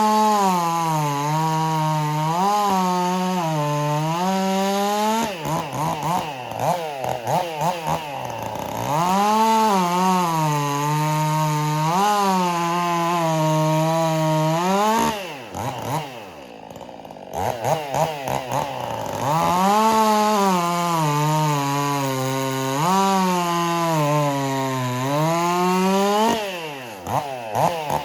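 Stihl MS 400 C chainsaw with a modified exhaust cutting into a log, three times. The engine pitch is pulled down and held under load in each cut, and revs up freely between cuts, dropping briefly toward idle about halfway through.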